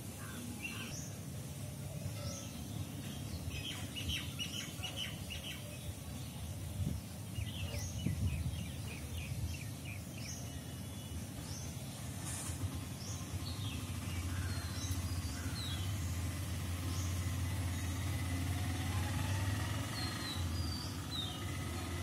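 Birds chirping: many short high chirps and quick trills scattered through, over a low steady hum that grows louder past the middle.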